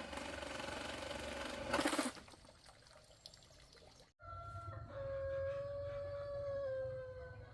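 A rooster crowing: one long drawn-out call that sinks slightly in pitch, coming in after an abrupt cut about four seconds in. Before the cut there is a noisy stretch with a loud burst of sound about two seconds in.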